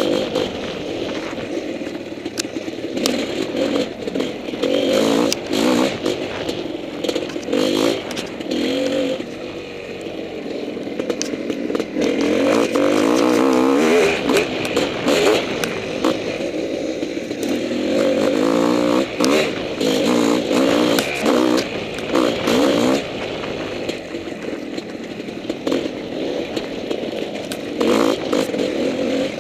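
Honda CR500 two-stroke single-cylinder dirt bike engine revving up and falling back again and again as the bike rides rough singletrack, with frequent rattling and clattering knocks from the bike over the ground.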